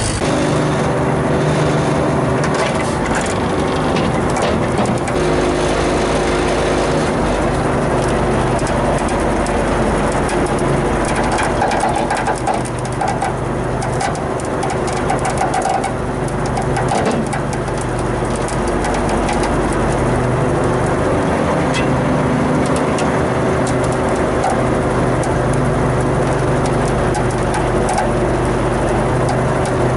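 Vehicle engine running steadily at a constant speed.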